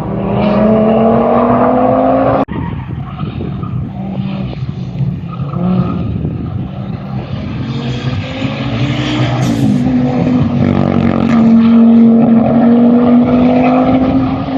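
Audi Quattro Group B rally car's turbocharged five-cylinder engine accelerating hard, its pitch rising, then cutting off abruptly about two and a half seconds in. It builds again and holds high revs, loudest near the end.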